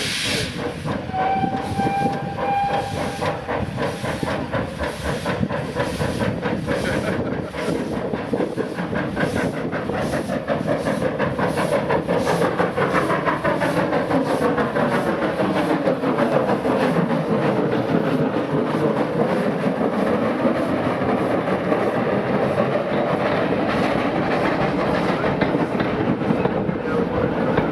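Steam locomotive hauling a train: a short whistle toot about a second in, then a run of even exhaust beats and the steady clatter of the train going by.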